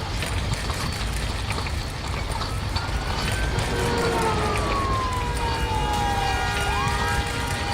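Police siren wailing, its pitch sliding slowly down through the middle and rising briefly near the end, over a steady low vehicle rumble.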